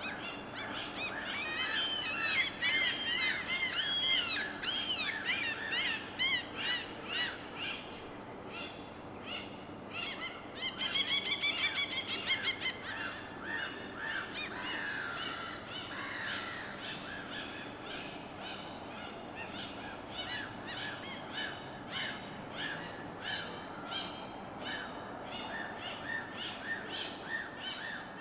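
Birds calling over a steady wash of water. A run of arching calls comes in the first few seconds, a fast rapid-fire series about halfway through, then short calls repeated about twice a second through the second half.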